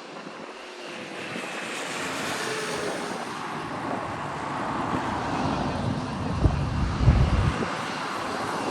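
Boeing 777-300ER's GE90 turbofan engines on approach to land, a jet roar growing steadily louder as the airliner nears, with a deep rumble swelling about six to seven and a half seconds in.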